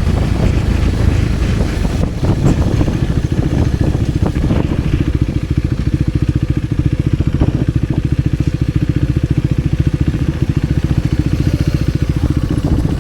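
Motorcycle engine running. About four seconds in it settles into an even, rapid low beat at steady low revs.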